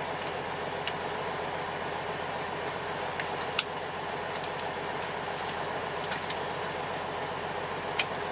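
Steady engine and road noise inside a semi-truck's cab, with a few sharp clicks, the loudest about three and a half seconds in and again near the end.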